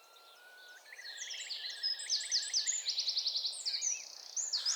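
Common starling singing a busy, varied song of high whistles, fast trills and clicks, starting with a slow rising whistle. The birder hears it mimicking a curlew's call.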